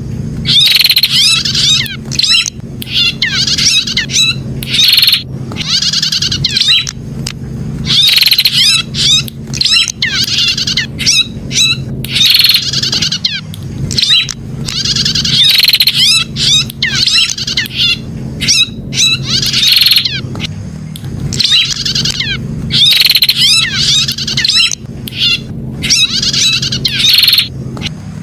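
Prinia (prenjak) singing a rapid, high-pitched chattering song in repeated bursts about a second long, separated by short pauses. A steady low hum runs underneath.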